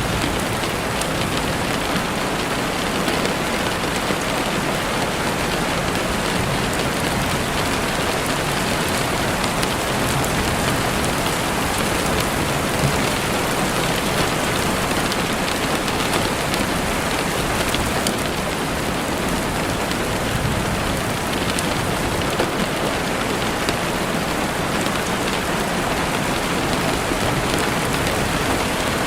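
Heavy rain falling steadily against a window, a dense even hiss of drops with no pauses.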